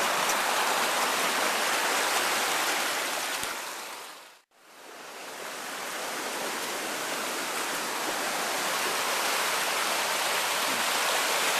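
Rain-swollen stream rushing steadily. The sound fades out about four seconds in and fades back up a second or so later.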